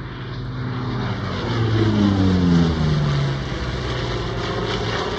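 Hawker Sea Fury, re-engined with a Douglas Skyraider's Wright R-3350 radial engine and propeller, flying past: the engine and propeller grow louder to a peak about two and a half seconds in, and the pitch drops as it passes.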